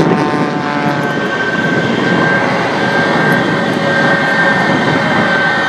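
Aircraft engine noise: a loud, steady rush with a high whine running through it.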